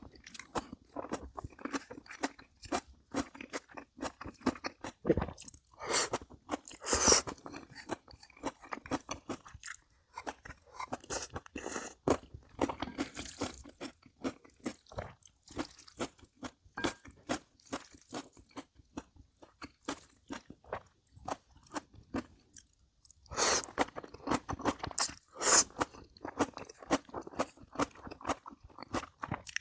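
A person chewing crisp, crunchy food in a fast, continuous run of crunches, with a short pause near the end.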